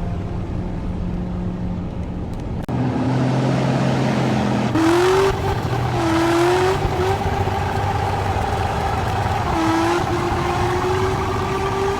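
BMW M3's twin-turbo inline-six engine droning steadily, then accelerating hard. Its pitch climbs and drops back twice at gear changes, and it is still rising near the end.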